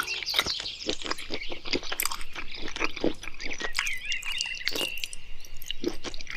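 A sun bear chewing and crunching as it eats, a quick irregular run of wet smacks and crunches. A bird's wavering chirp sounds behind it, most clearly in the second half.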